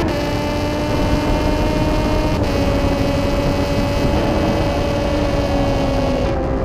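Triumph Daytona 675R sport bike's three-cylinder engine running hard at high revs, with steady wind rush. The pitch drops a little at the start and again about two and a half seconds in, then sags gently.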